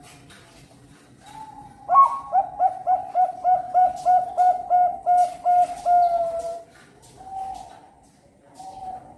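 Zebra dove (Bangkok-line perkutut) singing: a fast string of about a dozen short coos, roughly three a second, ending in a longer falling note, then a few softer single coos.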